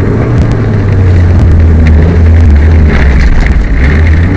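Peugeot 205 rally car's engine running hard at speed, heard from on board, with scattered sharp clicks over the engine note. The car has a misfire.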